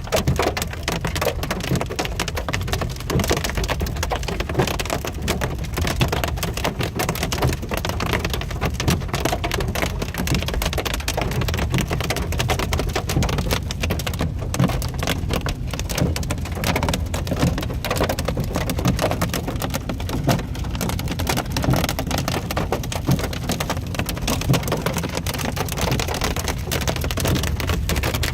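Hail pelting a car's roof and windshield in a dense, irregular patter of sharp ticks, heard from inside the cabin over a steady low rumble of the moving car.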